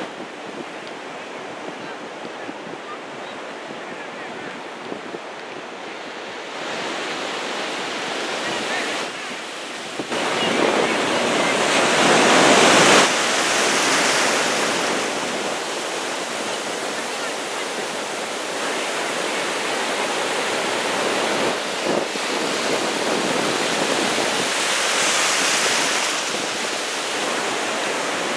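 Rough ocean surf breaking on the beach, a steady wash that swells louder about halfway through and again near the end, with wind buffeting the microphone.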